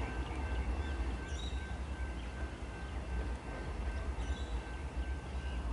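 Three-car electric suburban train at the platform, a steady low rumble with a faint steady whine. Birds chirp briefly twice.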